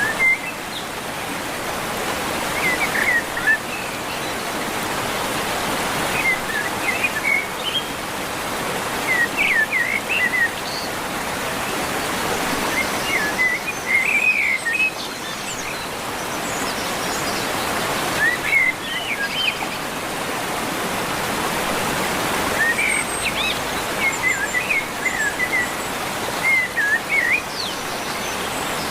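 Small birds chirping in quick clusters of high notes every few seconds, over a steady rushing noise.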